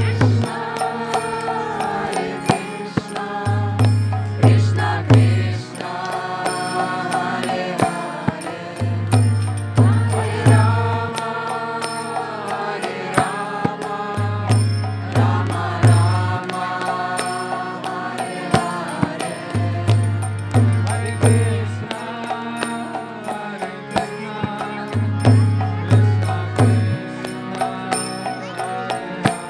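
Devotional kirtan chanting: sung call-and-response mantra with steady accompaniment. Rhythmic drum strokes and small hand cymbals keep time throughout.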